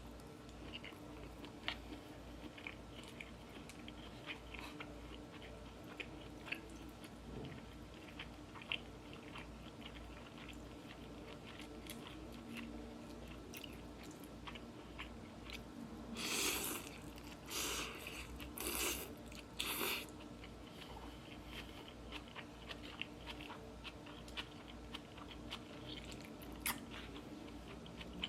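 Close-up chewing and wet mouth clicks of someone eating, with a run of four louder rushing noises about two-thirds of the way in.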